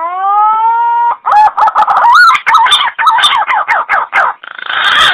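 Punai (green pigeon) call played as a hunting lure. A rising note is held for about a second, followed by a quick run of warbling notes and then harsh rasping notes near the end.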